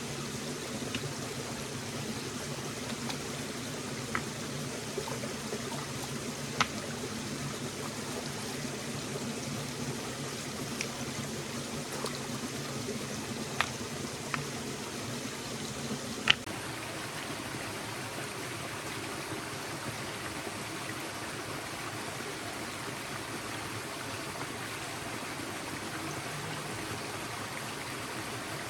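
Forest stream flowing steadily, with a few sharp clicks scattered through the first half, the loudest a little past halfway.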